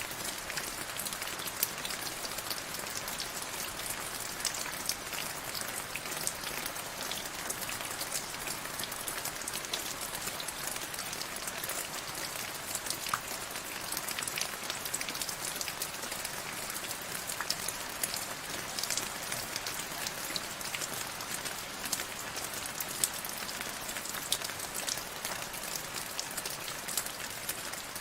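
Steady rain, a constant hiss of falling rain dotted with many sharp little ticks of drops striking a surface.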